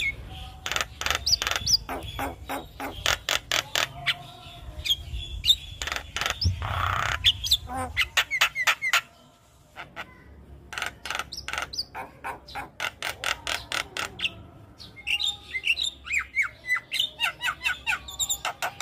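Javan myna calls: rapid runs of sharp clicking notes and chirps mixed with harsh squawks, with a brief pause a little past the middle before the chatter resumes.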